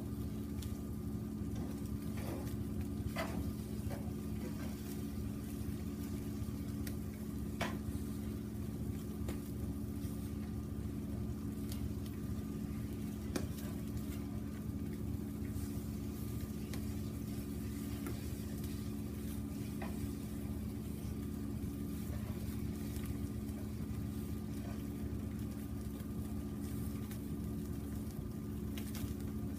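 Chicken frying in oil in a frying pan over a small wood fire: a steady sizzle with scattered sharp pops, over a constant low hum.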